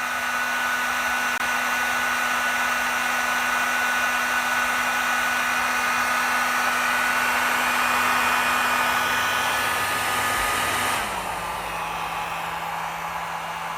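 Panasonic hair dryer blowing steadily on a high setting, its motor whining under the rush of air. About eleven seconds in it steps down to a lower, quieter speed, the motor tone dropping in pitch.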